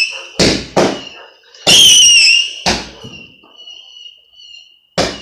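A multi-shot cake firework firing: several sharp bangs spaced irregularly, with a loud high whistle from one shot about two seconds in that fades out slowly.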